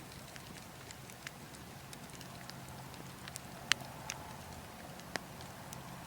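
Burning logs crackling, with scattered sharp pops, the loudest a little past halfway, over a steady low rush of wind.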